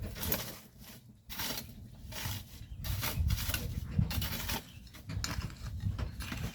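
Shovels or hoes scraping and scooping loose volcanic sand in irregular strokes, each about half a second long, over a low rumble.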